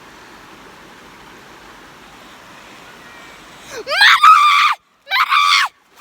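A stream running steadily, then a girl screams twice, high-pitched: a long scream about four seconds in and a shorter one just after five seconds.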